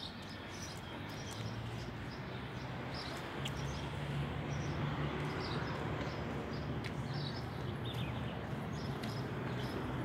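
Small birds chirping repeatedly in short high calls over steady outdoor background noise, with a low steady hum that grows louder from about a second in.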